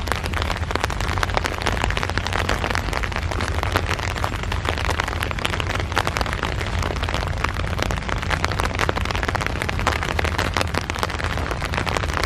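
Heavy rain: a dense, steady patter of many drops over a constant low rumble.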